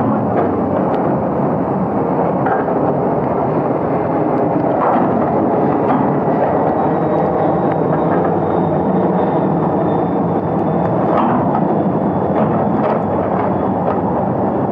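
Heavy rain falling steadily, a loud, even rush with scattered sharp taps.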